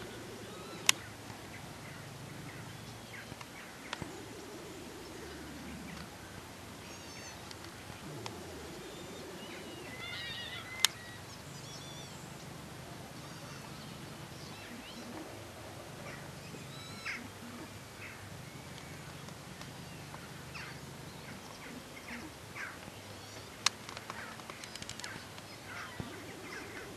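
Faint bird chirps here and there over a steady outdoor hiss. Three sharp clicks stand out: about a second in, near the middle and near the end.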